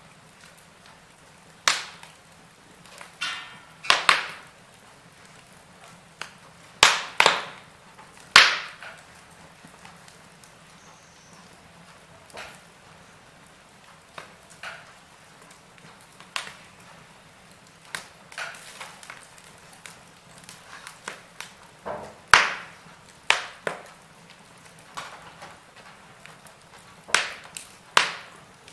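Wood fire in a fireplace crackling: irregular sharp pops and snaps, a few much louder than the rest, over a faint steady hiss.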